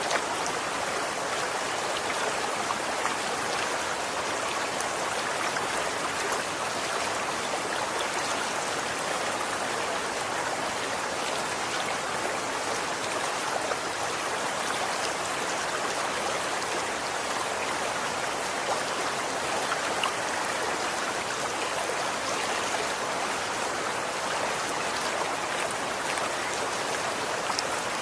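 Running water flowing in a steady, even rush, with faint small splashes or drips now and then.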